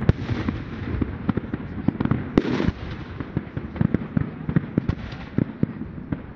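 Fireworks going off in rapid succession: dense sharp bangs and crackling pops, with a longer, louder burst about two and a half seconds in.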